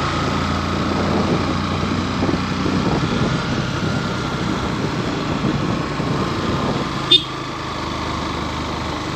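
Motorcycle engine running steadily, with a brief high chirp about seven seconds in.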